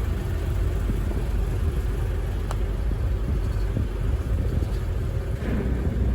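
Small river ferry's engine running with a steady low rumble.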